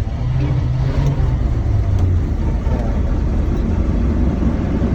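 Chevrolet 454 big-block V8 engine running steadily and loudly on a cold start in extreme cold, having caught about a second earlier.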